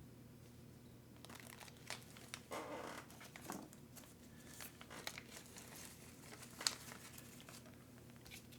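Plastic parts bags crinkling and rustling as they are handled, with scattered light clicks, mostly from about a second in until near the end. A steady low hum runs underneath.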